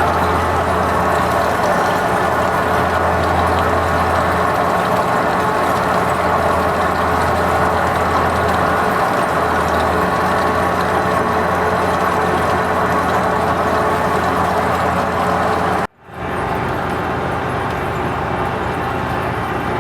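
Lathe running steadily while turning a large part, a continuous machine hum with steady cutting noise. The sound cuts out abruptly for a moment near the end, then resumes.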